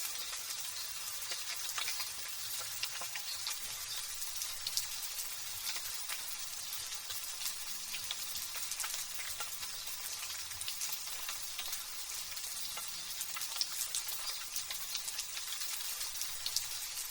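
Light drizzle falling steadily: an even hiss full of tiny drop ticks, with no thunder.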